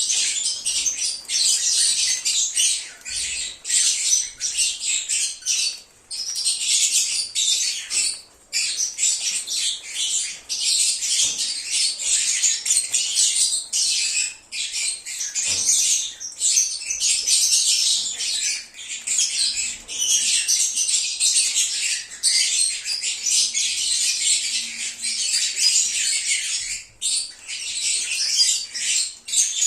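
A group of lovebirds chattering: a dense, continuous stream of shrill chirps and squawks with only brief pauses.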